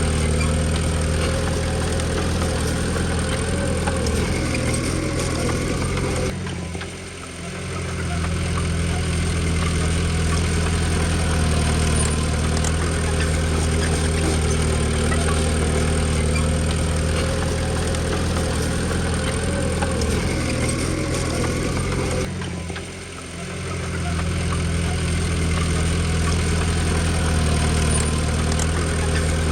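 Diesel engine of a Komatsu D20P bulldozer running steadily, dipping sharply in loudness twice and coming back up within about a second each time.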